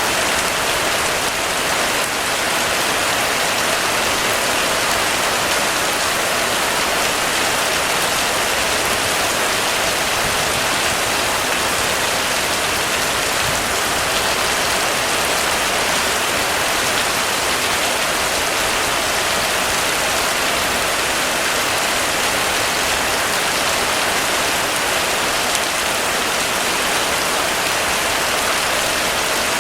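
Heavy rain falling steadily on surfaces, an even, unbroken hiss with no thunder or other events.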